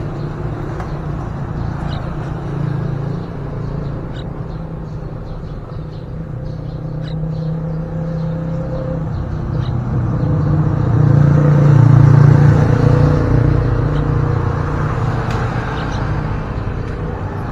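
Steady low engine rumble from motor traffic, swelling louder about eleven to thirteen seconds in, as if a vehicle passes close by. Faint short bird chirps are scattered over it.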